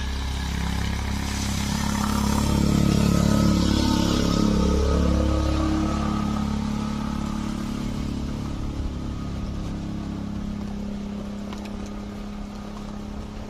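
A motor vehicle's engine running, growing louder for about three seconds and then slowly fading.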